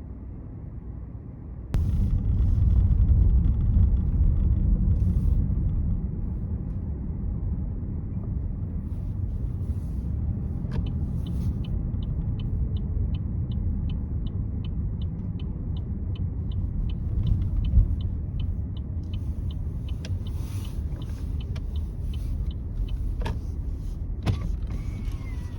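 A car's steady low road and engine rumble while driving, starting suddenly about two seconds in. In the middle stretch an even run of light ticks, about two or three a second, comes through over it, like a turn indicator clicking.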